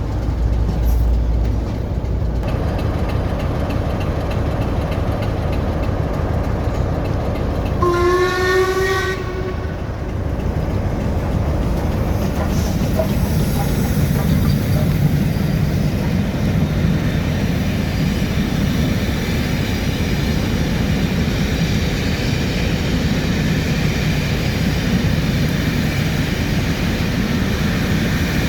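A train running past with a steady rumble. About eight seconds in, it sounds one short note on its horn, about a second long.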